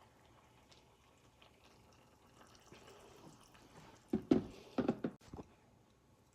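Faint handling sounds, then a quick run of four or five knocks about four seconds in.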